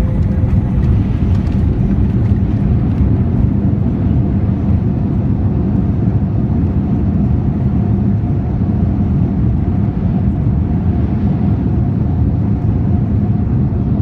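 Loud, steady rumble of a Boeing 787-9 heard from inside the cabin as it rolls on the runway after landing, with a faint steady whine above it. The rumble eases slightly near the end as the aircraft slows.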